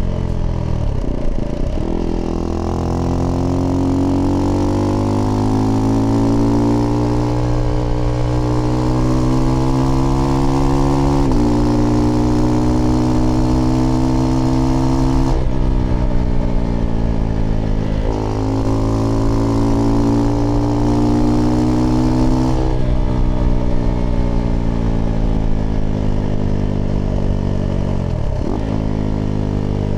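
Husqvarna Svartpilen 401's single-cylinder engine running through an aftermarket IxRace Mk.2 exhaust while riding. Its pitch climbs steadily and drops suddenly at each gear change, several times.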